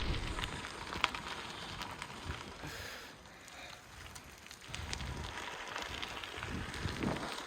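Giant Roam hybrid bike's tyres rolling over a gravel trail: a steady crackling hiss with many small clicks, with some low wind rumble. It eases off briefly in the middle.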